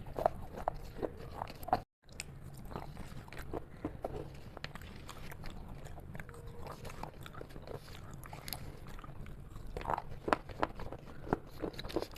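Person chewing and biting a chocolate dessert with crunchy chocolate pieces, a run of short crisp crunches, with the plastic spoon scooping in the plastic tub. The sound drops out briefly about two seconds in.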